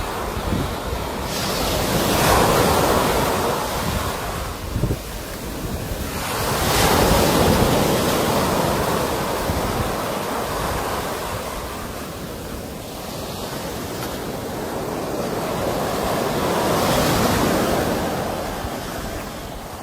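Sea waves washing onto the shore, the surf swelling and fading in three slow surges, about two seconds in, about seven seconds in and near the end. Wind rumbles on the microphone underneath.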